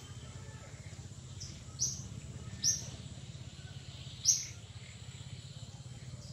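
Short, high bird chirps: one faint, then three sharper ones spaced about a second apart, over a steady low hum.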